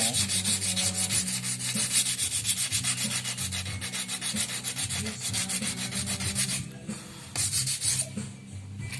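Sandpaper being rubbed over a motorcycle frame in quick, even back-and-forth strokes. The scraping breaks off briefly about seven seconds in and is weaker near the end.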